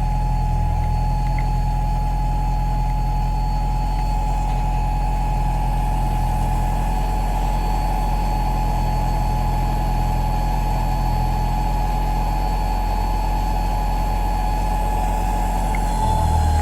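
Aeromotive 340 electric fuel pump running with a steady high whine, over a low steady hum with a flutter to it; the low hum grows louder near the end. The owner finds the pump's noise odd and not normal.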